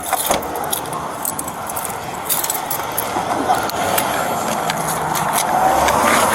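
Jingling and clicking of an officer's metal gear, such as handcuffs and keys, as he moves. A vehicle's rushing noise swells near the end.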